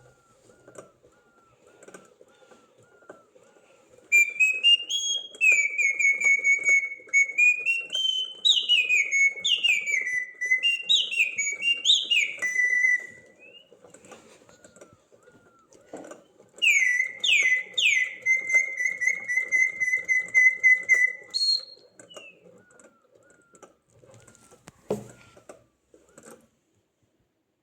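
A bird whistling loud song phrases in two long bursts of gliding and held whistled notes, with faint short chirps repeating between them.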